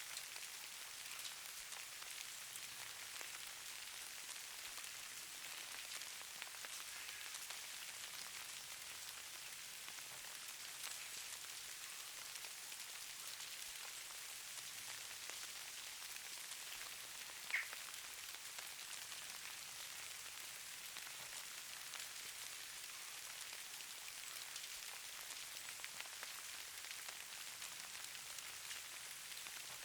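Falling snow: a faint, steady patter of many fine ticks over a soft high hiss. One sharper tick stands out a little over halfway through.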